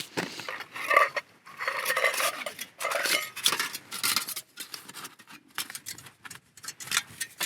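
Metal camping cookware clinking and scraping as it is handled, in quick irregular knocks with brief ringing.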